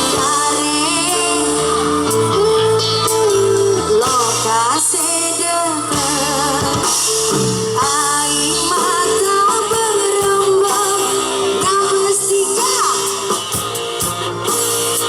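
Loud music with a singing voice over bass, guitar and drums, played through a large outdoor sound system.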